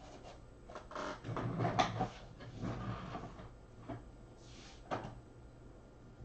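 Trading cards and foil pack wrappers being handled: irregular rustling, sliding and a few soft clicks, over a steady low hum.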